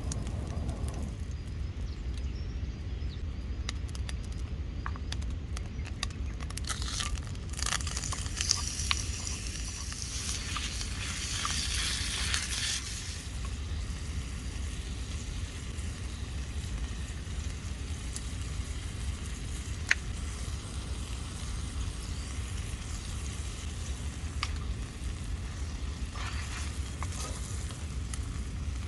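Food sizzling in a pan over a wood campfire, with scattered crackles and clicks. The sizzle grows louder and brighter for about six seconds, a quarter of the way in, then settles back. A steady low rumble runs underneath.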